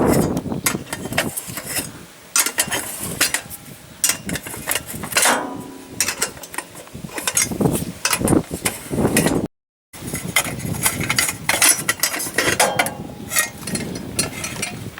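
Irregular mechanical clicking and clanking, with a brief drop to silence about two-thirds of the way through.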